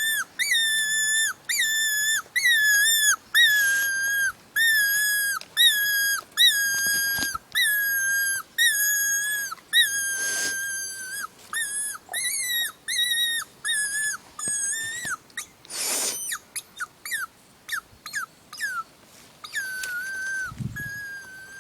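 Hand-blown hog call sounding a long series of squealing notes at one pitch, about one a second, then a run of shorter, quicker squeaks near the end.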